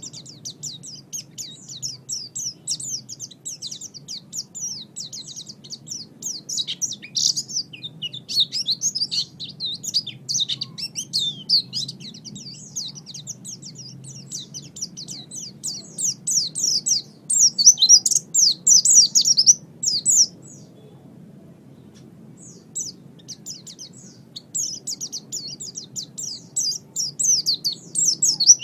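White-eye (pleci) singing: a fast, continuous high-pitched twittering song of quick chirps, which breaks off for about two seconds about two-thirds of the way through, then resumes. A faint steady low hum runs underneath.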